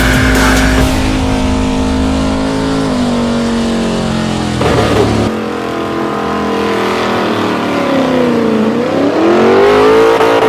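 A big truck engine running and being revved: its pitch holds steady, then steps down, and near the end drops and climbs back up as the throttle comes off and back on.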